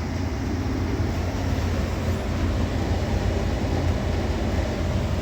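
Carrier 58MCB080 gas furnace's fan motor running steadily with a low hum during a start-up cycle.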